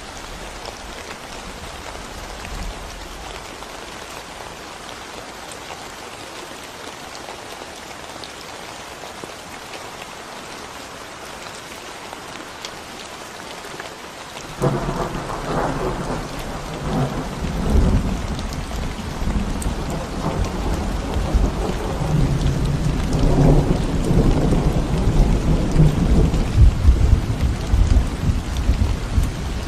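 Steady rain falling on a concrete road. About halfway through, thunder breaks in suddenly and keeps rumbling in rolling swells to the end, louder than the rain.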